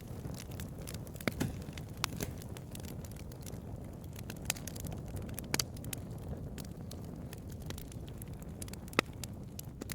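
Bonfire burning: a steady low rumble of flame with sharp, irregular crackles and pops, the loudest pop near the end.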